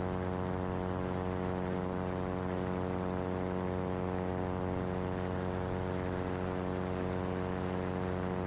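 Cessna 337 Skymaster in flight on its rear engine alone, running steadily at full power with the front engine shut down and feathered; a steady, unchanging drone. The landing-gear warning horn is sounding, set off by the front engine's closed throttle with the gear up.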